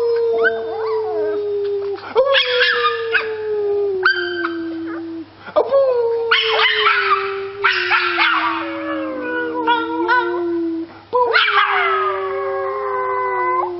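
A dog howling: about four long drawn-out howls, each sliding slowly down in pitch, with short breaks for breath between them.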